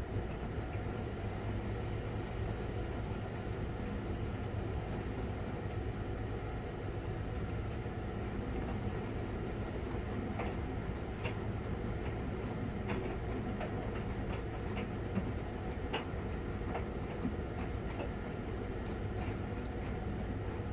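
Miele Novotronic W921 front-loading washing machine running with a steady low hum, with a faint thin high whine in the first half. Scattered short clicks and knocks come from about halfway.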